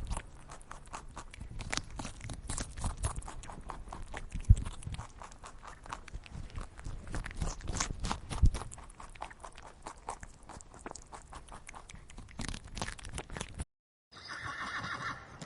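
A rabbit moving about, with irregular light clicks and crunches and two dull thumps about four and eight seconds in. It cuts off sharply near the end.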